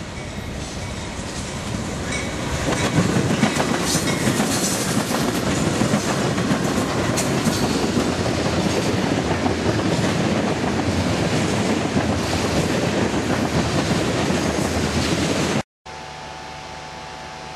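Freight train cars rolling past, wheels clattering over the rails; the noise builds over the first few seconds, then holds steady. It cuts off suddenly near the end, giving way to a quieter steady hum.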